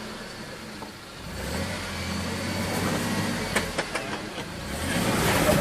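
Jeep JK Wrangler engine running under load on a rock-crawling climb, swelling in about a second in, with a few sharp knocks about halfway through and the noise building near the end.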